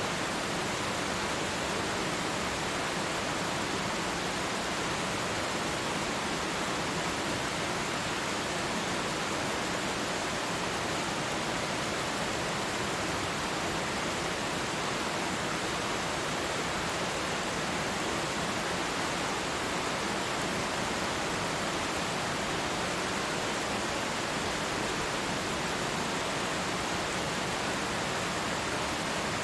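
Waterfall, a twin fall of water, giving a steady, even rush of falling water with no change.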